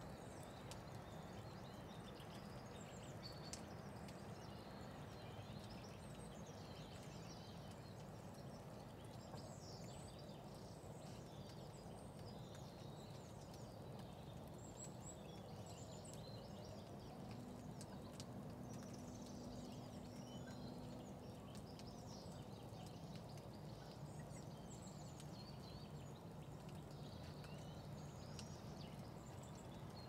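Faint chirping and twittering of small garden birds, many short high calls scattered throughout, over a steady low background rumble.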